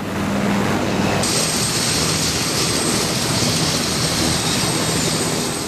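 Helicopter turbine engines and rotor running steadily, with a high turbine whine that comes up about a second in.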